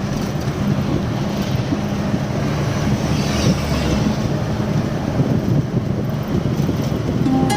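Loaded lorry driving along the highway, heard from the cab: a steady engine drone under continuous road noise.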